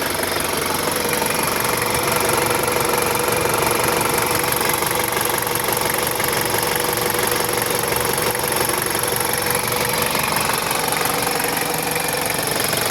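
Freshly rebuilt Toyota 1KZ four-cylinder diesel engine running steadily with an even diesel clatter.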